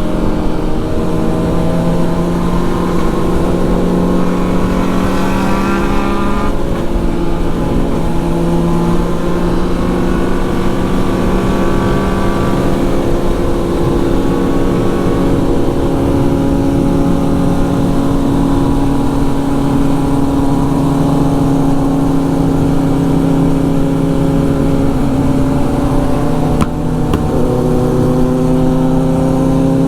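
Sport motorcycle engine running under way, its pitch rising and falling several times as it speeds up and eases off, with a brief drop near the end.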